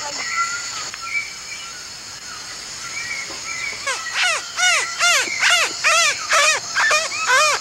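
A boy's vocal imitation of an antwren's call: a rapid string of loud, arching rise-and-fall notes, about two to three a second, starting about four seconds in, used to lure the bird within blowgun range. A steady high insect chorus of rainforest crickets runs underneath.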